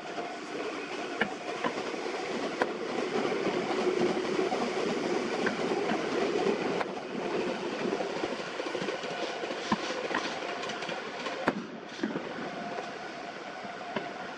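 A train passing, a steady rumble and rattle of wheels on track that swells and fades, with a few sharp, distant firework bangs over it. The audio is sped up to double speed.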